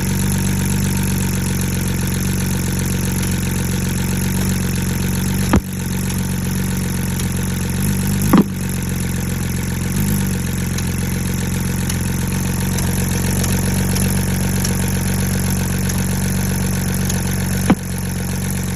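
Car engine idling with a misfire: a steady idle broken by three sharp stumbles, about six, eight and eighteen seconds in.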